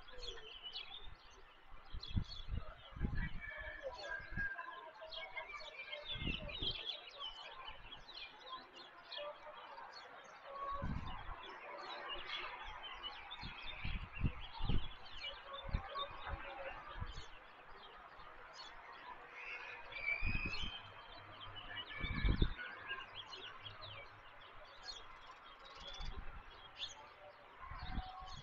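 Small birds chirping and calling on and off throughout, with several brief low rumbles, such as wind buffeting the microphone.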